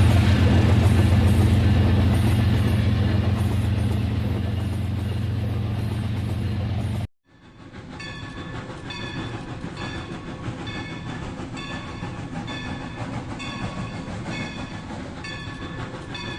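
Rail King toy train running on its track: a steady low motor hum that slowly fades, then a sudden cut, after which a regular clicking runs at about two clicks a second.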